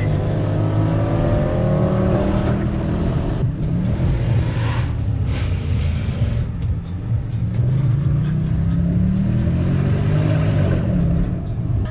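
A car's engine and exhaust under hard acceleration. The pitch climbs over the first couple of seconds, holds through the middle, then climbs again and drops back near the end.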